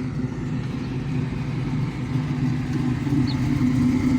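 A 1969 Chevrolet Camaro driving up with its engine running, getting louder over the last couple of seconds as it comes closer.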